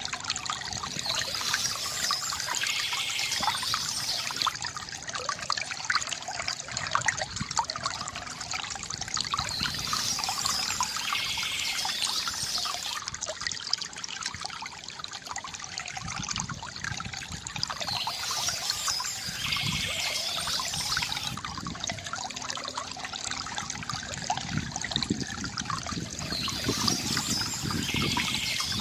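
Water from a bamboo fountain trickling and gurgling steadily into a basin, splashing lightly and continuously.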